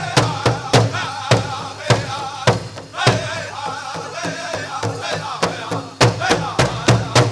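A powwow drum group sings in wavering voices over a big drum struck in a steady beat, about three strikes a second. The beat breaks off briefly twice.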